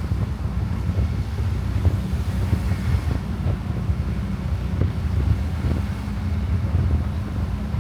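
Motorcycle engine running steadily while riding, with wind buffeting the microphone as a low rumble.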